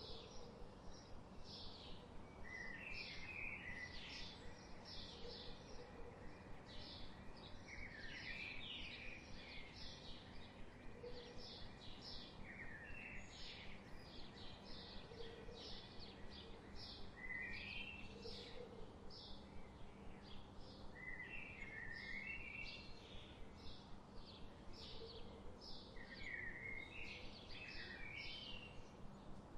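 Faint forest birdsong: a steady series of short, high chirps repeating throughout, with a lower warbling phrase breaking in every few seconds, over a light background hiss.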